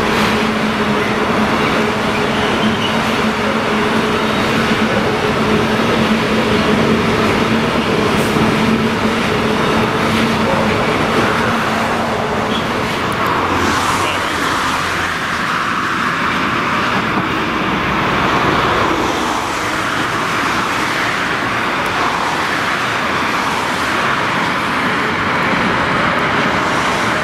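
Freight train passing: a steady low hum with a higher tone over it for the first dozen seconds or so, then a continuous rushing and rumbling of wagons rolling by. A whine rising in pitch starts near the end.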